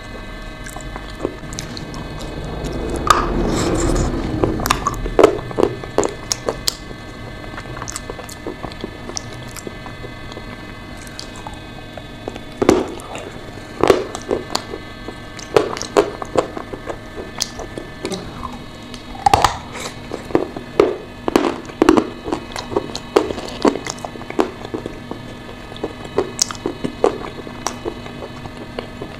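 Close-miked wet chewing and mouth sounds of someone eating a soft, creamy chalk-clay mixture. Sticky smacks and clicks come at irregular moments, with a louder stretch of squishing about three to five seconds in.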